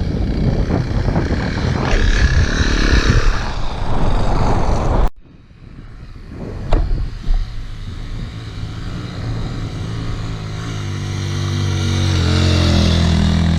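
Adventure motorcycle engines on a sand track: first a bike running hard with wind noise, which cuts off suddenly about five seconds in, then a couple of sharp clicks and a motorcycle engine growing steadily louder toward the end.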